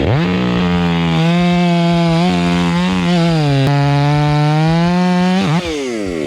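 Milwaukee cordless electric chainsaw running at full speed with a steady whine that sags in pitch under load, most clearly a little past halfway, as it works through big maple wood. It winds down and stops near the end.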